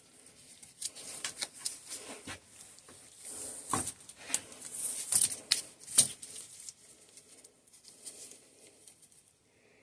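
Irregular light clicks, taps and scraping from hands working a bicycle suspension fork's remote lockout cable and housing free, busiest in the middle, with one sharper click about six seconds in.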